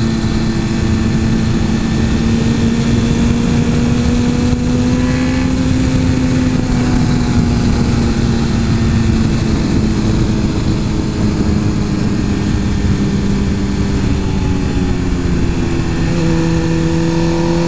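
Suzuki GSX-R 1000's inline-four engine running at a steady pace under way. Its note rises slightly early on, then eases lower in the second half, over a dense low rushing noise.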